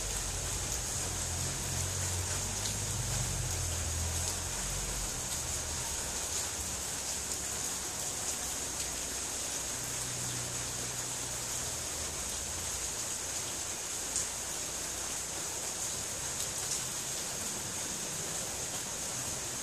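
Steady rain falling, an even hiss. A low rumble sits under it for the first few seconds and comes back weaker about halfway through.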